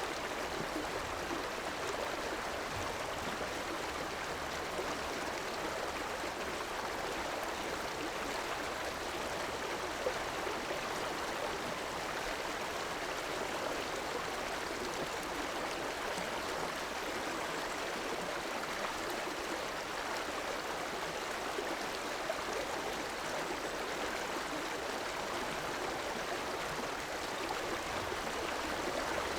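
A river's flowing water running steadily, an even rushing and gurgling without breaks.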